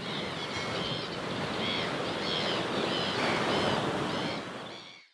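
Sea waves washing, with birds calling over it in a run of short repeated calls; the sound fades out near the end.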